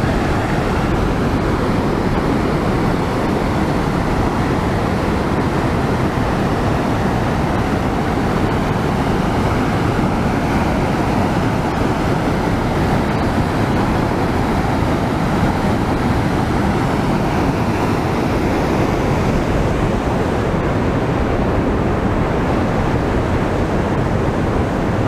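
Waterfall's falling water making a steady, loud rushing noise, unbroken throughout.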